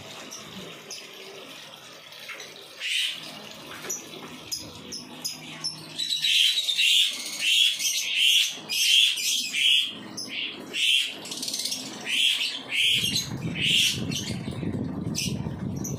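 Small bird chirping over and over in short high notes, about two a second, starting about six seconds in; a low rumbling noise comes in under it near the end.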